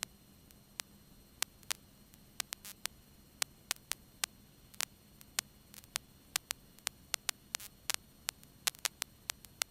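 Irregular sharp clicks and crackles, a few close together in pairs, over a faint steady hum on a cockpit audio feed between radio calls.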